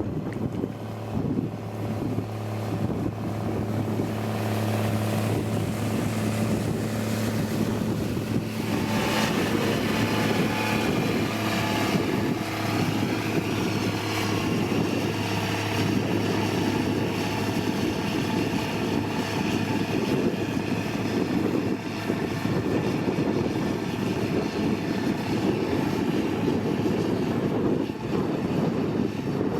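Heavy road-construction machine's diesel engine running steadily with a low, continuous drone. The sound turns harsher, with more high-pitched noise, from about nine seconds in.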